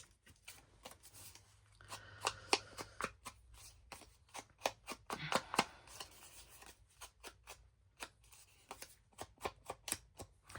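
Hands sorting through a pile of paper tags and printed cardstock pieces from a junk-journal kit: a long run of quick, irregular papery flicks and rustles.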